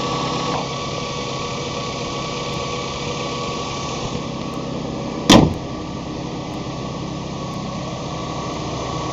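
1997 Honda Accord EXi's dual overhead cam four-cylinder engine idling steadily, with one sharp knock about five seconds in.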